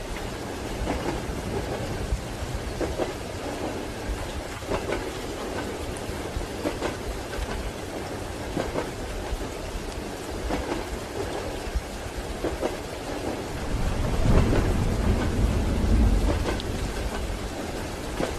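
Steady rain with the clack of train wheels over rail joints about every two seconds. A deep rumble swells up for a few seconds near the end.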